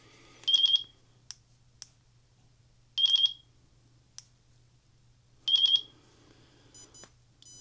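RC transmitter beeping in bind mode: a short burst of rapid high-pitched beeps repeating about every two and a half seconds, with a few faint clicks in between.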